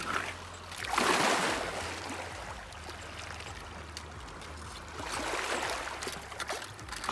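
Small Lake Huron waves washing up on a rocky beach, one surge about a second in and a weaker one about five seconds in.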